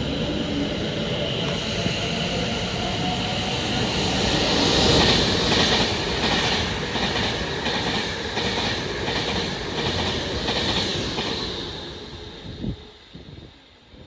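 Train passing through on the West Coast Main Line, its wheels rushing on the rails. From about six seconds in there is a regular clickety-clack of wheel beats, about two a second. The sound is loudest about five seconds in and fades away near the end.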